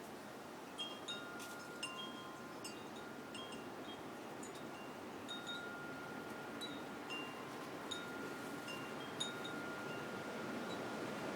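Porch wind chimes ringing in the wind: irregular strikes, several tones at once, each note ringing on, over a steady rush of wind.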